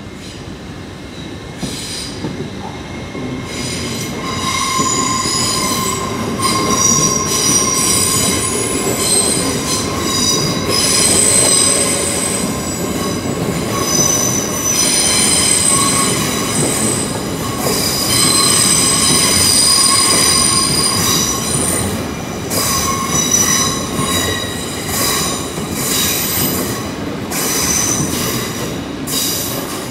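GWR Class 802 bi-mode intercity train running past on curving track, its wheels squealing with high, flickering squeals over a steady rumble. The sound builds over the first few seconds and then stays loud as the carriages go by.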